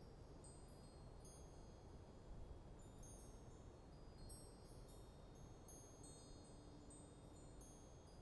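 Faint, high-pitched wind chimes tinkling at random as a light breeze moves them, over a low steady rush of wind.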